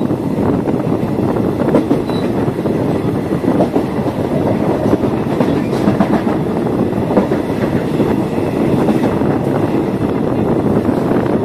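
Moving State Railway of Thailand passenger train heard from a carriage window: a steady rumble of wheels running on the rails, with scattered clacks.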